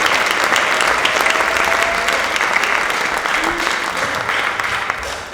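Theatre audience applauding, a dense patter of many hands clapping that tapers off near the end.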